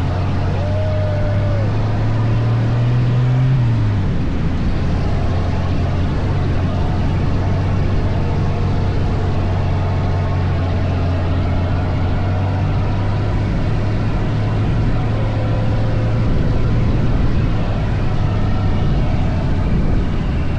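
Dune buggy engine running steadily. Its pitch climbs a little about two to three seconds in, drops as the throttle comes off, then holds an even note.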